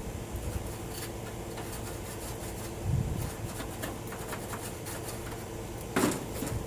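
Hand work on a metal piece at a bench: light rubbing and scratching, a dull thump about three seconds in and a sharp knock near the end, over a steady hum.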